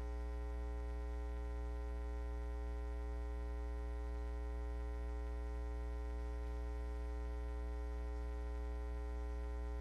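Steady electrical mains hum with a buzz of many higher overtones, unchanging throughout, as from the audio recording chain.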